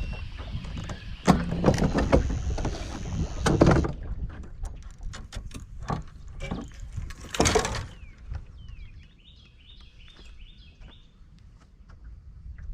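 Clicks, knocks and rustling of fishing gear being handled in a small boat, louder in the first few seconds, with a short burst of noise about seven and a half seconds in and a faint run of high chirps later on.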